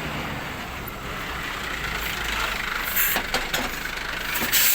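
A glass recycling truck's engine running steadily, with short hissing bursts about three seconds in and again near the end.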